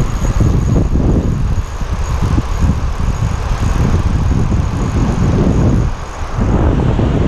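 Wind buffeting the microphone: a loud, uneven low rumble that rises and falls, dipping briefly about six seconds in.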